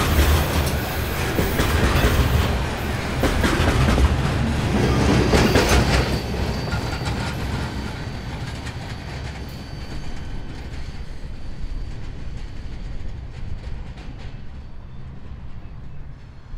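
Freight train rolling past, its wheels clattering over the rails. The sound fades steadily from about six seconds in as the train moves away.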